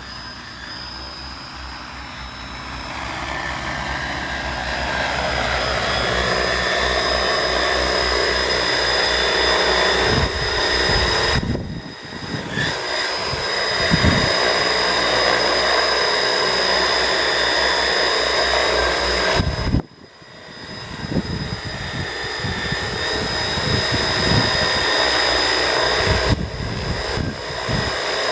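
Multirotor agricultural spraying drone's rotors running in flight, a steady drone-like hum that grows louder over the first several seconds. The sound drops out sharply about twenty seconds in and then builds back.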